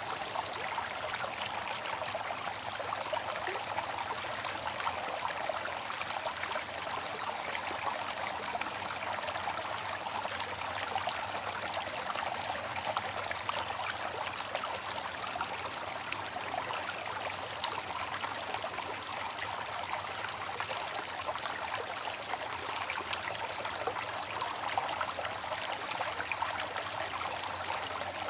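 Water fountain running steadily: a continuous trickling and splashing of falling water, with no change in level.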